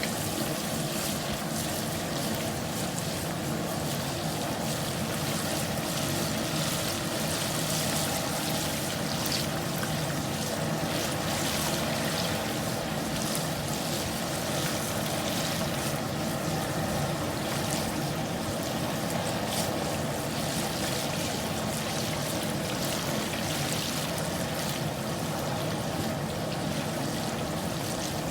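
Hot frying oil bubbling and sizzling steadily around a whole turkey just lowered into it, with fine crackling over a steady low hum.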